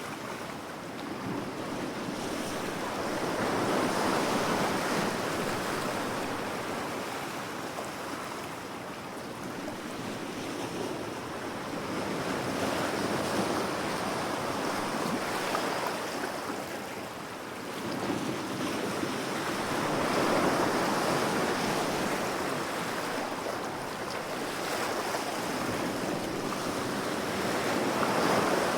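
Ocean waves breaking and washing on the shore, the surf swelling and easing every few seconds, with some wind on the microphone.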